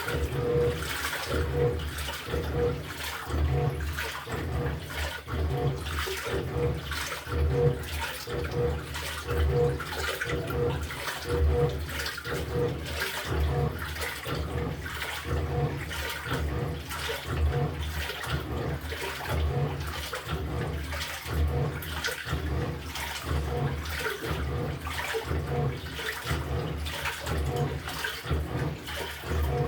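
LG top-loading washing machine agitating a load in water. The motor drives the pulsator back and forth in a steady run of short strokes, with water sloshing in the tub.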